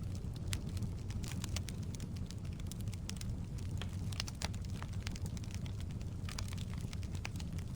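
Firewood burning in a fireplace: many sharp, irregular crackles and pops from the burning logs over a steady low rumble.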